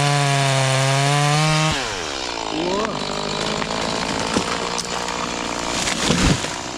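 An engine running at high, steady revs, then dropping in pitch about two seconds in and running lower and rougher, with a brief rise in revs around three seconds in.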